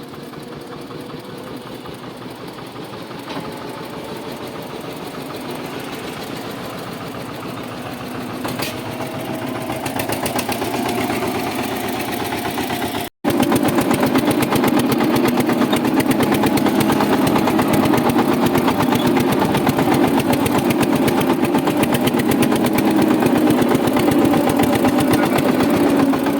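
Tractor engine running with a steady firing rhythm, growing louder over the first dozen seconds; after a brief cut-out about thirteen seconds in, it runs louder and steady.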